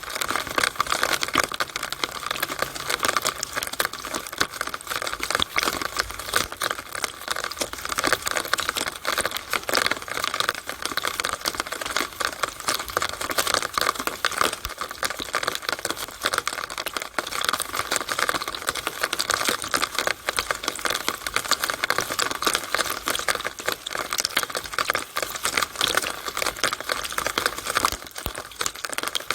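Rainwater in a downspout on a rainy day: a steady, dense, irregular crackling patter of drops and splashes.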